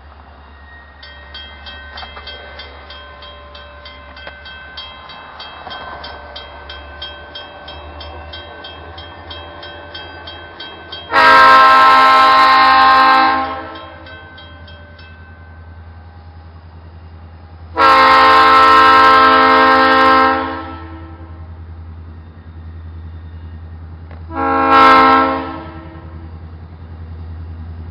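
A train horn sounds two long blasts and then a short one, the start of the grade-crossing signal, as a train approaches. Under the horn, a bell rings rapidly and steadily until a few seconds after the first blast. A low rumble runs throughout.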